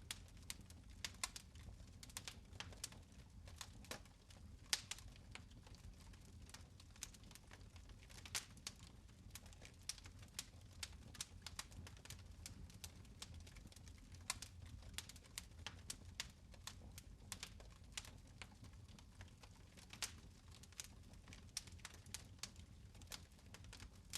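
Fire crackling in a fireplace: quiet, irregular snaps and pops, several a second, over a low steady rumble.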